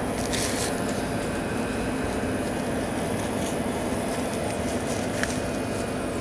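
Ryko Radius HT touchless car wash machinery running: a steady mechanical hum with an even hiss, and a faint click about five seconds in.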